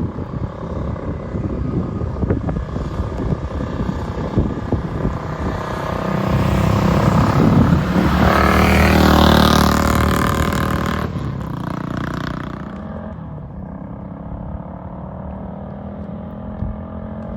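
A 1956 BSA Gold Star DB34's single-cylinder four-stroke engine running. It grows louder and higher in pitch about six seconds in, peaks a few seconds later, then drops back and settles lower. The engine is running sweetly, well dialed in.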